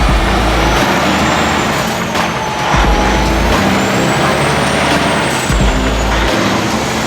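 Semi truck running down the road, heard from inside the cab: steady engine and road noise with a low rumble that swells about every two and a half seconds.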